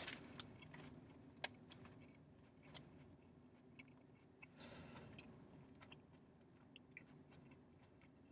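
Near silence with faint chewing: a mouthful of roast beef gyro being chewed, with small scattered mouth clicks and a brief soft hiss about halfway through.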